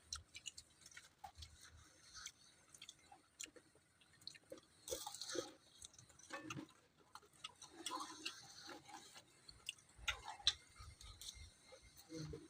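Close-up eating sounds: chewing with scattered small wet clicks and mouth noises at an irregular pace, and a few louder bursts about five and ten seconds in.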